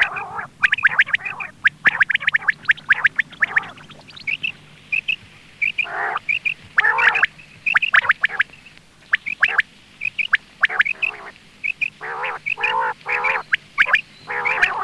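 Quail (batair) calling: quick runs of short, sharp calls, some high chirps and some harsher, fuller notes, repeating with brief pauses. This is the kind of call hunters play to lure quail.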